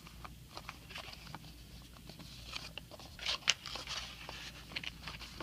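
Paper walls, coated in glue stick, being pressed and smoothed onto a cardboard milk carton: light paper rustling and crinkling with small scattered clicks, and a louder rustle a little past halfway.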